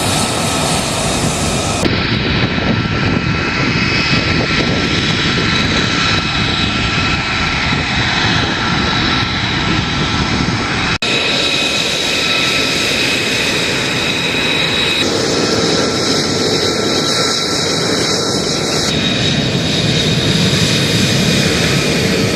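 Jet aircraft engines running loudly, a dense rush of noise with a steady high turbine whine over it; the sound changes abruptly several times, with a brief dropout about 11 seconds in.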